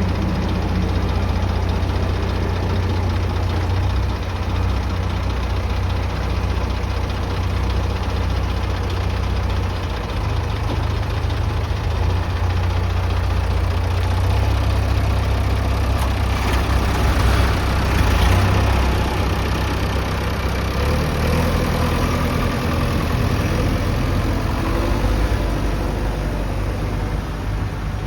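Heavy diesel engine running steadily, swelling louder for a few seconds a little past halfway before settling again.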